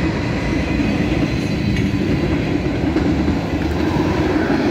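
CSX manifest freight train passing close by: a steady, loud rumble of its diesel locomotives and rolling wheels on the rails.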